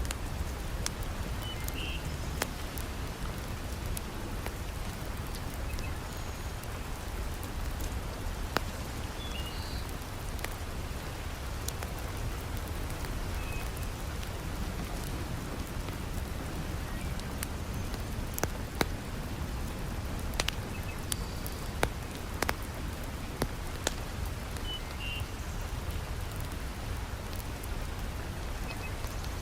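Heavy rain falling steadily, mixed with the scattered sharp crackles and pops of a wood fire burning in a fireplace.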